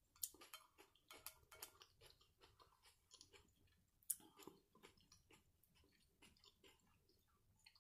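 Faint close-up chewing and mouth sounds, with soft clicks of a fork against a plate as the last scraps of food are picked up; one sharper click about four seconds in.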